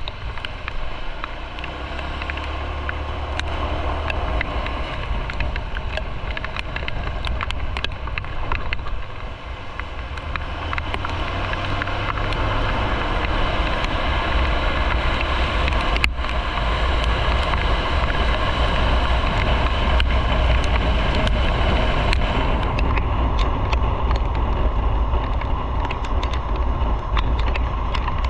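Motorcycle under way: steady wind rush and low engine and road rumble, growing louder from about ten seconds in.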